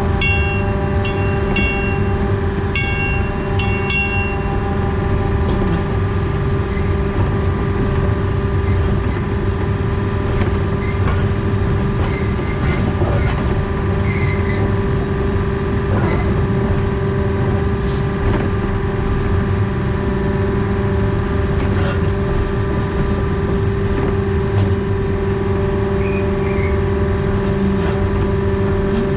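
Diesel engine of a narrow-gauge diesel-hydraulic locomotive running steadily under way, a constant drone with a steady hum, over rail and wheel noise. A few short, high pinging notes sound in the first few seconds.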